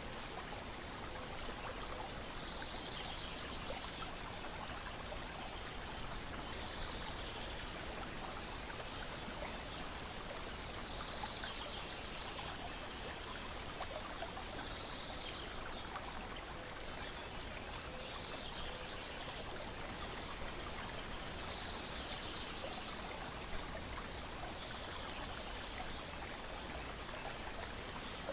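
Lake water lapping against a shore and deck, a steady watery wash, with high bird chirps that come back every few seconds and a few faint crackles from a wood fire.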